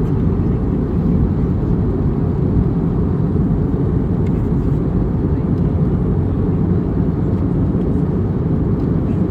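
Steady cabin rumble of an Airbus A321neo airliner on its approach, engine and airflow noise heard from inside the passenger cabin.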